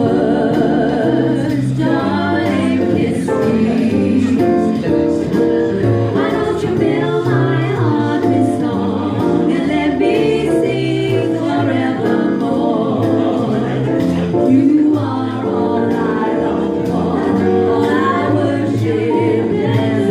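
Live singing over a musical accompaniment of held chords and a bass line.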